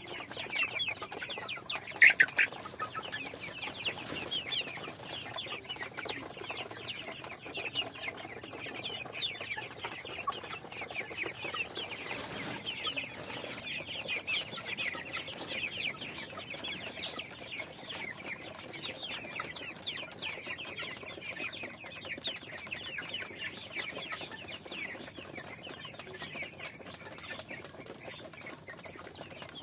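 A flock of chickens clucking and calling, many short high calls overlapping continuously, with one louder call about two seconds in.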